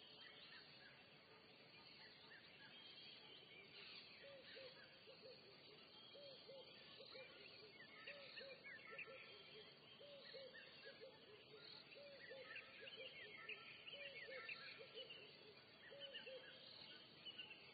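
Faint bird calls: low hooting notes come in short runs of two to four every second or two, starting a few seconds in, over higher chirps and twittering from other birds.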